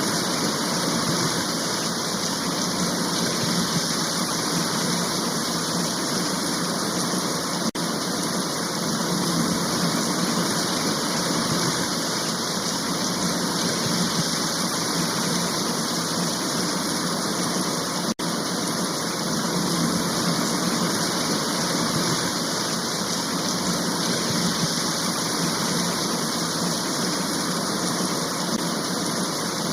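Steady, dense rain shower hiss, dropping out for an instant twice.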